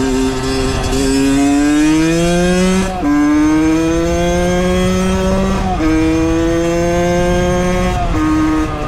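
Valenti 50's 50 cc two-stroke engine pulling under load while riding. Its pitch climbs steadily in each gear and drops sharply at three upshifts, about three, six and eight seconds in.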